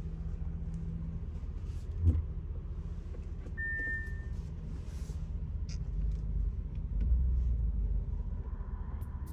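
Bentley Bentayga's engine running with a steady low rumble that swells for a couple of seconds past the middle. A thump about two seconds in, which is the loudest moment, and a short high beep just before four seconds.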